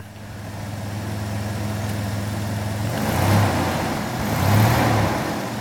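Toyota 4Runner engine running and revving in two surges, about three seconds and four and a half seconds in, as the stuck vehicle spins its wheels in deep snow without moving.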